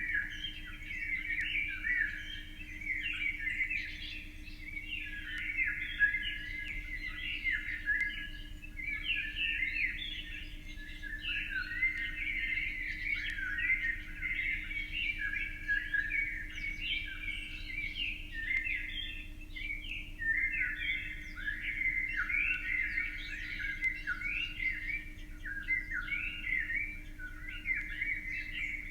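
Small birds chirping, many short calls overlapping in a dense, continuous chatter.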